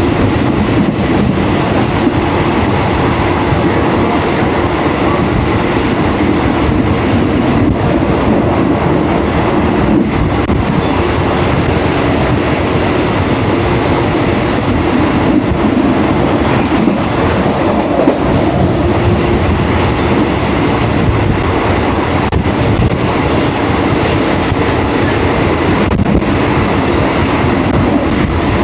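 Train running on rails: a steady rumble with the clickety-clack of its wheels.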